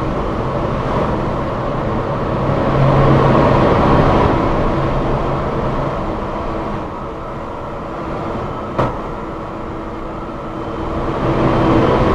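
MRT Line 3 train running along the line: steady rumble of wheels and track with a low motor hum that swells and eases, and one sharp click about nine seconds in.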